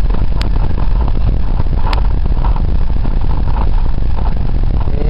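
Steady low rumble of a car's engine and road noise heard inside the cabin, with two sharp clicks about half a second and two seconds in.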